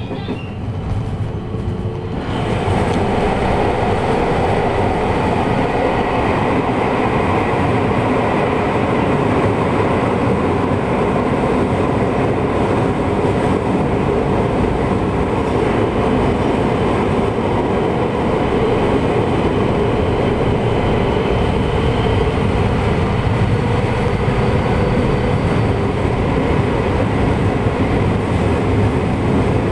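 JR West 223 series electric train running at speed, with steady wheel and running noise. About two seconds in it jumps to a louder, steady rush and rumble as the train enters a tunnel.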